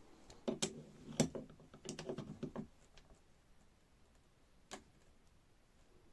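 Hydraulic jack parts being handled during reassembly: a quick run of clicks and knocks, some briefly ringing, over the first three seconds, then one more click a little before five seconds.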